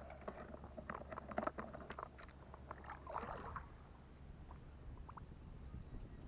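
Light sloshing of water with scattered small knocks and clicks, a slightly louder splashy rustle about three seconds in.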